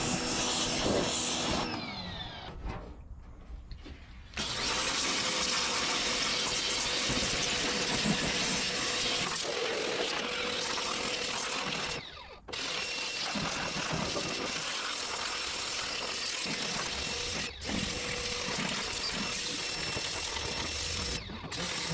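Pressure washer spraying: a continuous rush of high-pressure water with the machine's motor or pump running steadily underneath. The spray cuts off for about two seconds early on and then briefly three more times as the trigger is let go.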